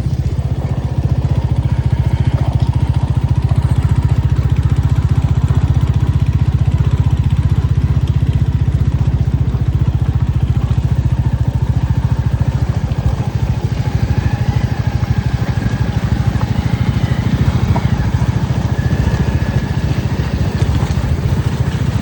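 A motor vehicle's engine running steadily with an even low drone, heard from close by, as when riding along.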